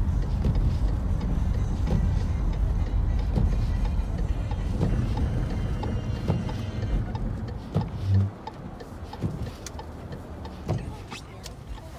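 Car interior while driving on snowy roads: a steady low rumble of engine and tyres under music from the car radio. The rumble fades about seven seconds in as the car slows, and a short low tone sounds about a second later.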